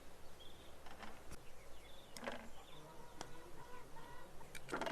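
Faint bird calls, short chirps and clucks like farmyard chickens, with a few light knocks.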